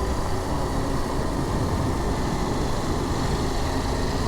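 KTM adventure motorcycle under way at road speed: a steady engine drone mixed with wind rush, heard through an in-helmet microphone.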